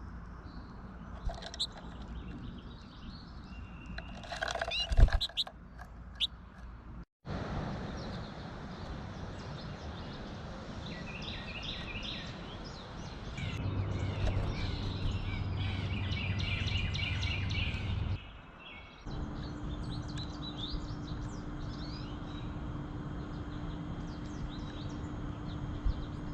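Songbirds chirping and twittering over a steady outdoor background noise, across several spliced clips, with the busiest twittering in the middle.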